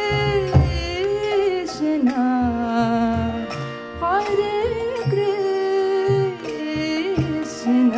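Kirtan music: a woman's voice sings a sliding, ornamented melody over a steady harmonium drone, with regular drum strokes and bright hand-cymbal hits.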